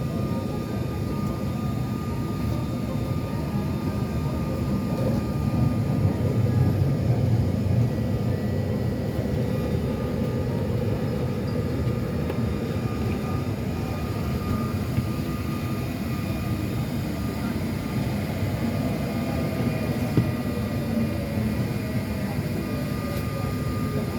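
Interior running noise of an MTR IKK electric train: a steady low rumble with a constant high tone. Over the last several seconds, a falling whine suggests the train is slowing.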